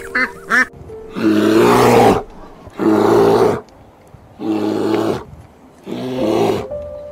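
A couple of short squawks, then a grizzly bear roaring: four deep, rough roars about a second long each, separated by short pauses.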